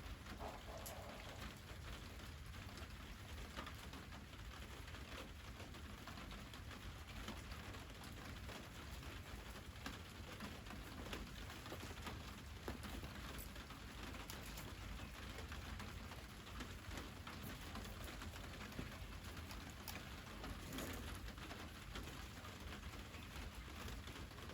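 Wood fire crackling: a steady hiss with scattered sharp pops.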